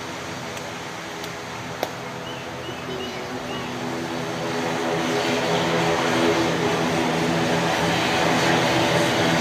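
Turboprop airliner's engines and propellers running with a steady hum of several tones, growing louder from about halfway through. A single sharp click just under two seconds in.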